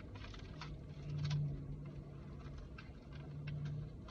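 Light scattered clicks, taps and rustles of fast-food wrappers and containers being handled, over a low steady hum.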